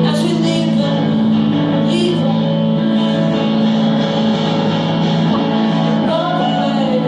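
Live band music: guitars hold steady chords while a voice sings long notes.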